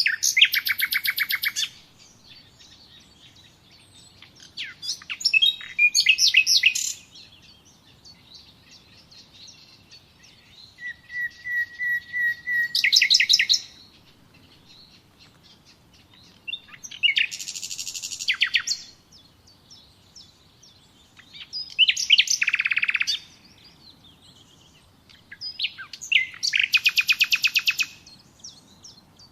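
A songbird singing a series of short song phrases of fast trilled notes, about six phrases spaced roughly four to five seconds apart, each a second or two long.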